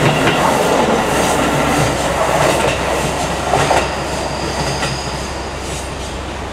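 Electric commuter train running past and pulling away, its wheels clacking over the rail joints, fading slowly as it goes. A faint high wheel squeal comes in about four seconds in as it takes the curve.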